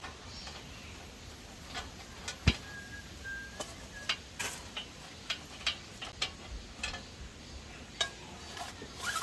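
Irregular sharp clicks and knocks, about one or two a second, the loudest about two and a half seconds in, over a steady faint hiss.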